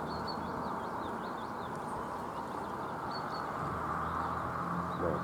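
Faint, short songbird chirps repeating over a steady outdoor hiss, with a low steady hum coming in a little past halfway.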